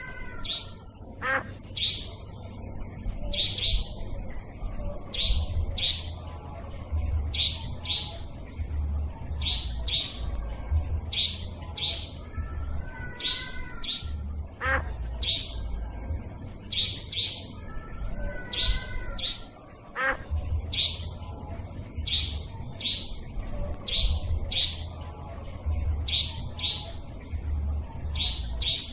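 Nightjar (cabak) calls played as a bird-lure recording: sharp, high double notes repeating about once a second. A lower, wavering call joins in a few times.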